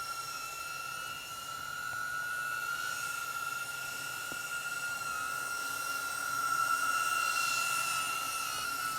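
DJI Avata FPV drone in flight, its ducted propellers giving a steady high whine that wavers slightly in pitch and swells a little about two-thirds of the way through.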